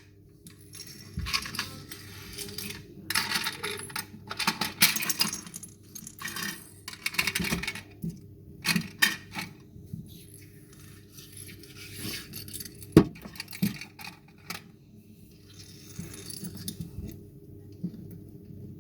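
Irregular clattering and clinking of hard objects knocking and rattling around, picked up from inside the plastic bin of a Bruder toy garbage truck, with one sharp knock about 13 seconds in.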